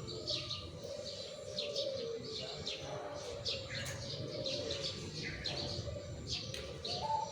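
Zebra doves (perkutut) cooing in low wavering notes, overlapped by many small birds chirping rapidly. A run of short staccato coo notes starts near the end.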